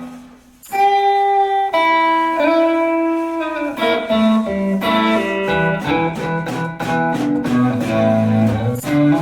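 Guitar music in an instrumental passage with no singing. After a brief pause, a melody line of held notes, some sliding in pitch, plays over plucked chords.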